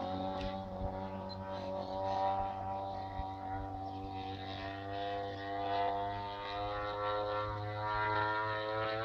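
Engine of a large radio-controlled model airplane running as a steady drone, its pitch drifting slowly and rising toward the end.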